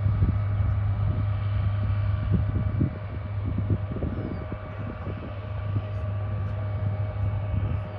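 Engines running steadily: a strong low drone with a constant whine above it.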